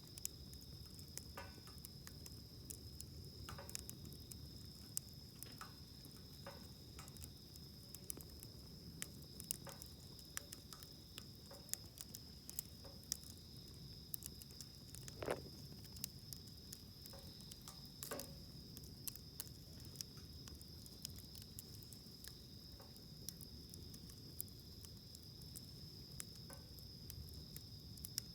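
Campfire wood crackling in a steel fire stand, with scattered small pops and two louder snaps about halfway through, over a steady high-pitched chorus of insects.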